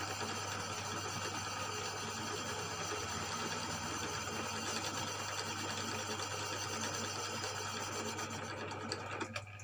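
Cylinder boring machine running steadily with a constant hum, its tool working inside the bore of a Yamaha Mio M3 cylinder block. Near the end the higher grinding sound fades and a few clicks are heard while the motor hum carries on.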